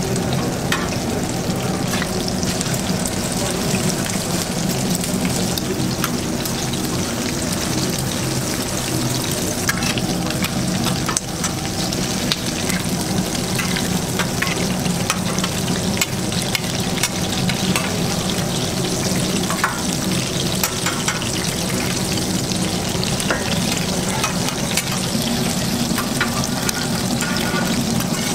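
Food frying in oil on a flat-top griddle, a steady sizzle, with frequent sharp clicks and scrapes of a metal spatula against the griddle plate.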